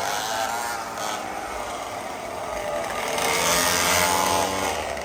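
Small 49cc two-stroke mini bike engines running at high revs, several at once, with wavering whining pitches; the sound grows louder a little past the middle.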